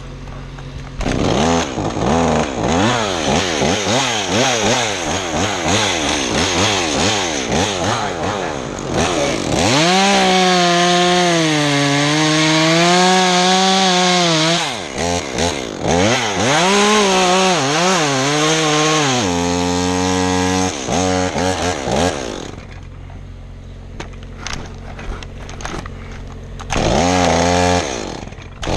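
Two-stroke chainsaw cutting pine: it revs up and down over and over, holds a long cut from about ten seconds in with its pitch sagging and wavering under load, drops to a quieter idle after about twenty-two seconds, and revs again near the end.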